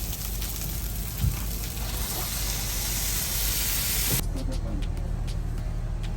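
A boat's engine hums steadily while the boat is under way. A loud steady hiss over it stops suddenly about four seconds in.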